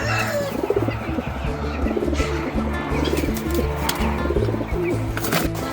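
Pigeons cooing over background music with long held notes, with a sharp click near the end.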